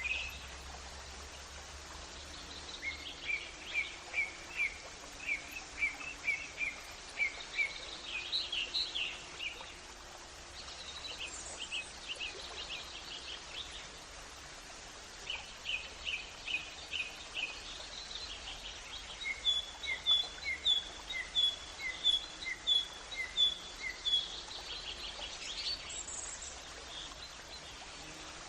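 Birds singing in repeated series of short, quick chirps, bout after bout, over a steady background hiss of outdoor ambience.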